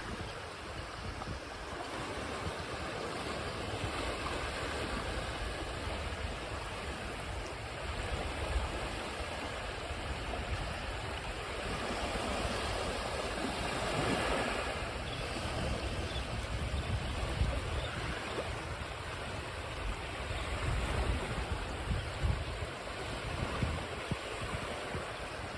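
Ocean waves washing onto a shore, a continuous rush of surf that swells to a peak about halfway through and then eases, with low rumble and some wind on the microphone.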